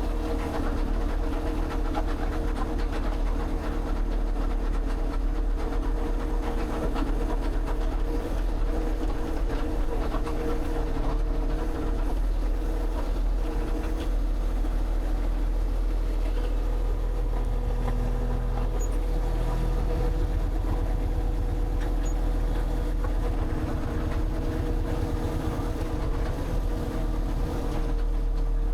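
An engine running steadily: a constant low rumble with a steady hum above it, no change in speed.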